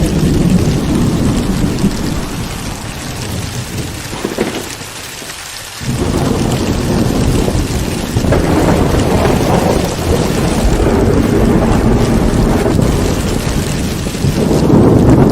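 Heavy rain with rolling thunder. A low rumble dies away over the first few seconds, a new one breaks in suddenly about six seconds in, and another swells near the end.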